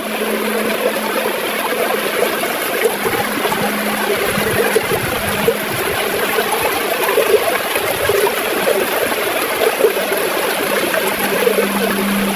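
River water gurgling and flowing steadily. A faint, steady low hum fades in and out beneath it and grows near the end.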